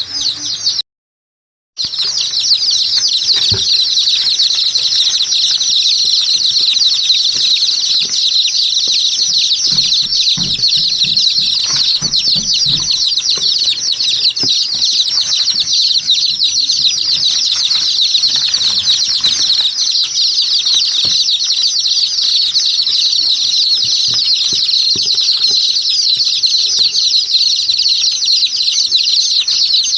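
Many small birds chirping and chattering together in a dense, unbroken chorus, with a brief silent gap about a second in.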